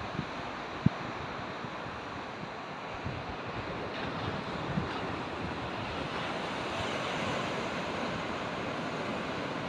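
Ocean surf breaking along a storm-swept shore: a steady rush of water that swells a little in the second half. Wind buffets the microphone, with a low bump about a second in.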